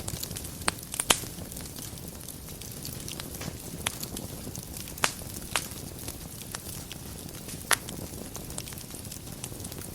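Wood fire burning in a fireplace: a steady low rumble with light crackling and about half a dozen sharp pops of the burning wood, the loudest about a second in.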